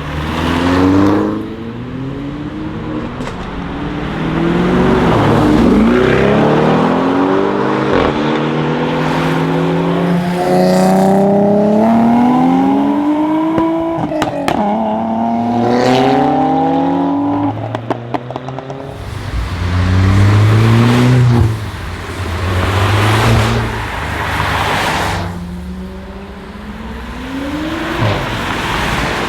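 Audi RS6 C7 Performance's twin-turbo V8 through an Akrapovic exhaust, accelerating hard: the engine note climbs in pitch in several steps as it shifts up, with a few sharp crackles at one shift about halfway through. After that the pitch drops off and the engine rises again more briefly.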